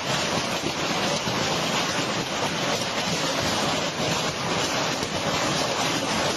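Hailstorm with heavy rain pelting down: a dense, steady wash of countless small impacts that does not let up.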